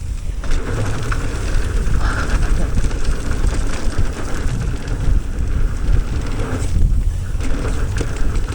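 Wind buffeting the camera microphone while a mountain bike rides down a dirt trail, a steady low rumble with scattered short clicks.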